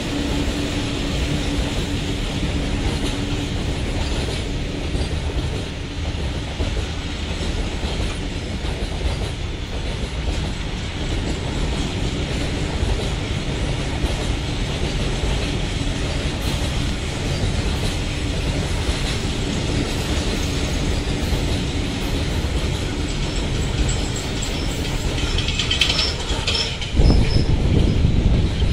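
Freight train of covered goods wagons rolling past at steady speed, wheels clattering over the rail joints. Brief high-pitched wheel squeal a couple of seconds before the end, then a louder low rumble.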